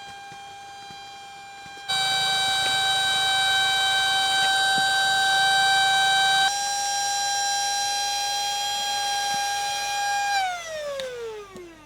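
Electric air pump running with a steady high whine, then switched off: its pitch falls away as the motor winds down and it stops near the end.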